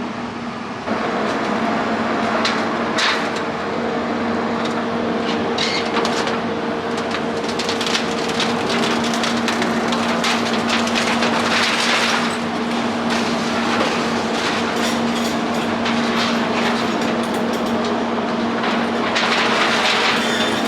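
Demolition excavator working a building down: its engine runs with a steady hum while broken concrete and rubble clatter and crunch in irregular bursts.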